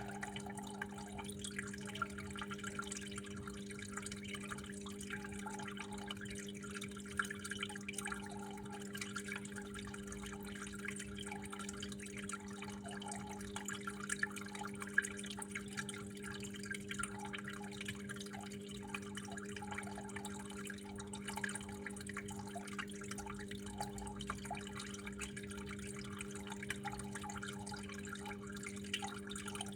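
Water trickling and dripping in a steady dense patter, with a few louder drops, over a steady low hum.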